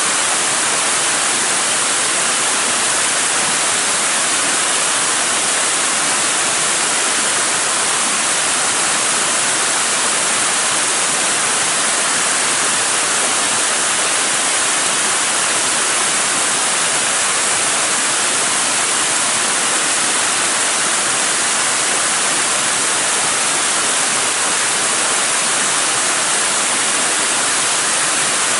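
Waterfall rushing: a steady, unbroken hiss of falling water, with no pauses or changes.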